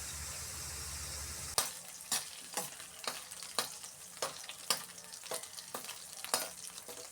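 Pork pan-frying in hot oil under a lid, the fat spitting in sharp pops about twice a second over a faint sizzle. A steady low hum stops about a second and a half in.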